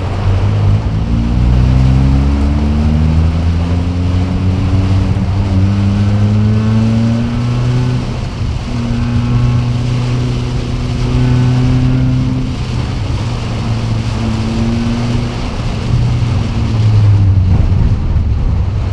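An engine running, its pitch climbing over several seconds and then holding fairly steady with small dips, over a steady hiss of heavy rain.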